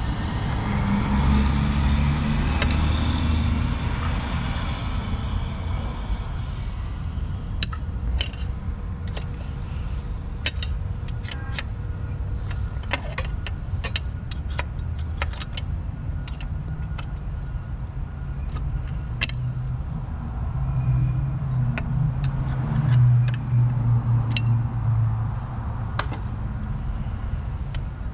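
Scattered metal clicks and clinks of a wrench and bolts being worked loose from an outboard's lower unit, over a steady low rumble that swells near the start and again about three quarters of the way in.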